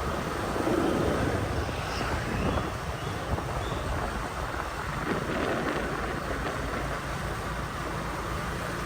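Wind rushing over the microphone of a moving motorbike, over the steady noise of its engine and the surrounding traffic.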